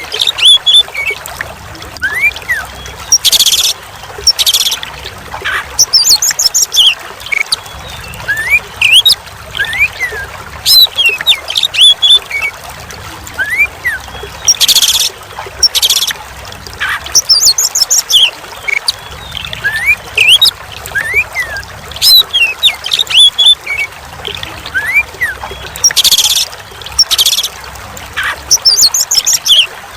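Oriental magpie-robin (kacer) singing and calling: quick whistled rising and falling notes mixed with harsh rasping bursts, over a steady trickle of running water. The same sequence of calls comes round again about every eleven seconds, as in a looped recording.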